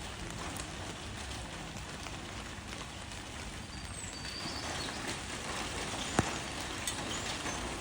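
Steady rain falling on leaves, a constant hiss with scattered drop taps and one sharper tap about six seconds in.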